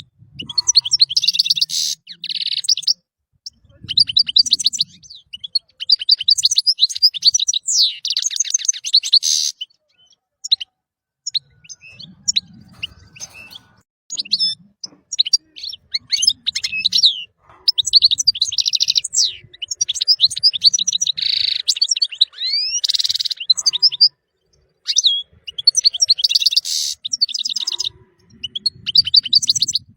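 European goldfinch singing: bouts of fast, tinkling twitters and trills, broken by short pauses.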